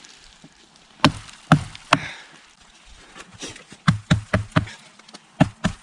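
Small Walther BNK 6 fixed-blade knife chopping into live tree wood: three hard strikes about half a second apart, then a quicker run of lighter chops over the last two seconds.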